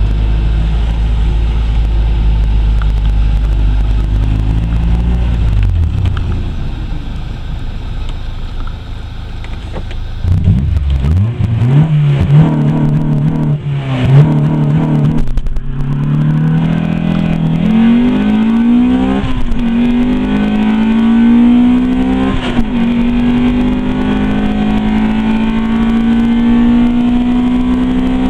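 Honda B16A2 VTEC four-cylinder with an AEM intake and a 2-inch straight-through exhaust through one Magnaflow muffler. It runs at a low, steady note at first, then launches about ten seconds in and accelerates hard. The pitch climbs in each gear and drops at each of several upshifts, ending in a long, slow climb in a high gear.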